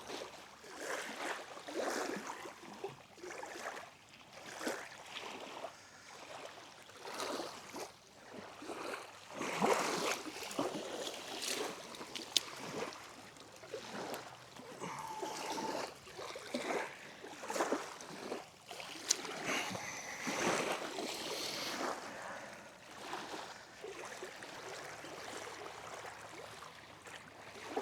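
Small waves lapping at the shore in irregular splashy surges.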